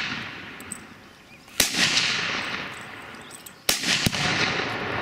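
Two sharp blasts about two seconds apart from Star reactive exploding targets set off by rifle shots, each followed by a long rolling echo that dies away slowly; a lighter crack follows shortly after the second.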